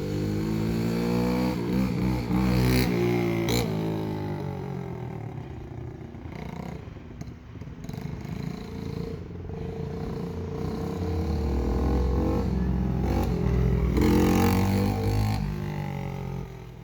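Mini bike motor revving, its pitch rising and falling in two surges, with some clatter and scraping.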